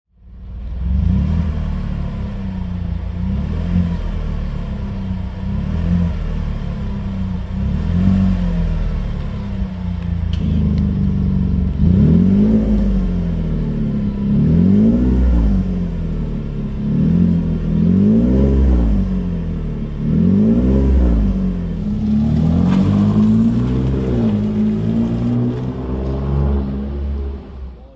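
Chevrolet Colorado 3.6-litre V6 running through a custom electronically valved exhaust, with a heavy, low rumble. It idles steadily at first, then is revved about six times, each rev rising and falling back. Near the end it settles into a steadier, slightly higher drone.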